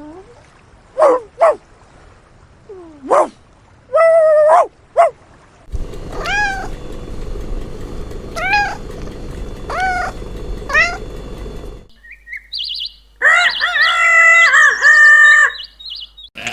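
Cat meowing in short, repeated calls across a few spliced clips, with brief gliding calls at first, then evenly spaced arched meows about every two seconds, then louder overlapping meows near the end.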